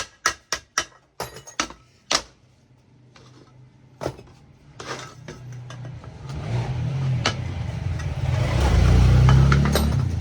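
A quick run of sharp, evenly spaced clicks that stops about a second in, then a motor vehicle's engine rumble that builds up, is loudest near the end, and begins to fade.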